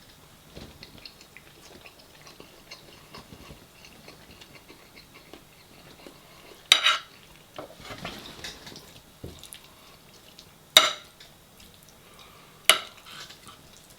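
Cutlery clinking and scraping against dishes of food, with many light taps and three sharp, louder clinks about seven, eleven and thirteen seconds in.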